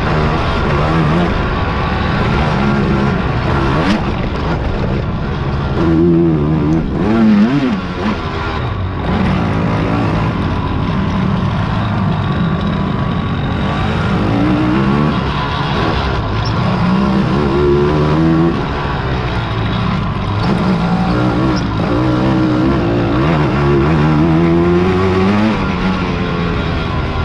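Engines of racing quads (ATVs) running hard and revving, their pitch rising and falling over and over as the riders accelerate and back off, with no break.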